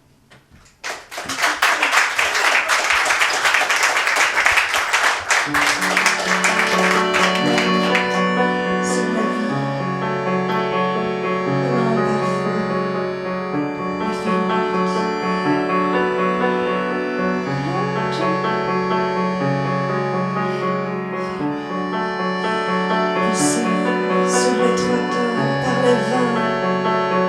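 Audience applause for the first several seconds, fading as a live band starts playing: keyboard-led music over held low bass notes.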